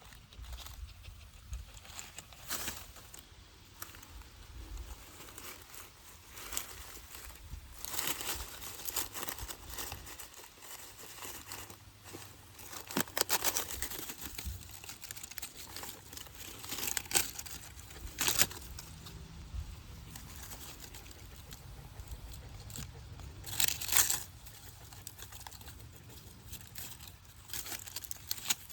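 Dry leaves rustling and crunching in irregular bursts as a fox plays and pounces in them, with several louder crunches.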